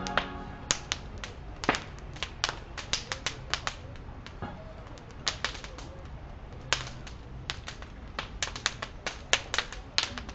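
Bonfire crackling: irregular sharp snaps and pops of burning wood, some louder than others, now and then several in quick succession.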